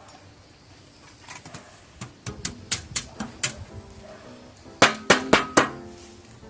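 Metal clanking: a run of light, sharp knocks, then a handful of louder clanks with a short ring.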